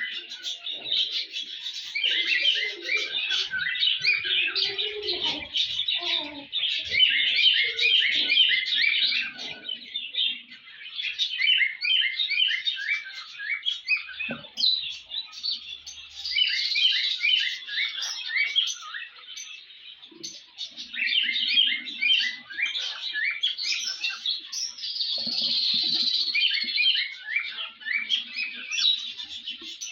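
Birds chirping: a dense, continuous run of short, rapid high-pitched chirps that drops off briefly a few times before picking up again.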